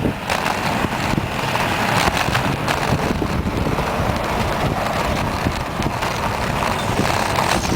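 Wind buffeting the microphone of a camera on a moving bicycle, over steady road rumble, with a few brief knocks.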